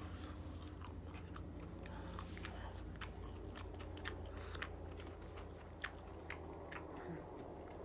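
Close-miked chewing and mouth smacking on fried chicken strips: scattered soft wet clicks over a low steady hum.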